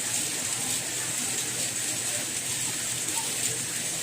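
Steady rain falling, an even hiss that is strongest high up, with no change in level.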